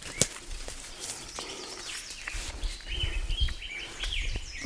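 Small birds chirping in short, quick falling notes, most of them in the second half. There is a sharp knock about a quarter second in, over a low outdoor rumble.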